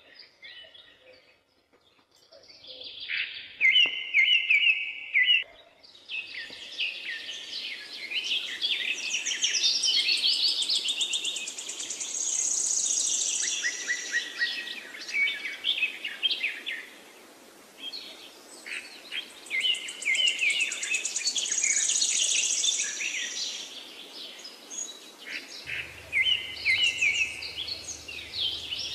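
Songbirds chirping and singing: overlapping quick trills and repeated high calls, after a short quiet spell at the start.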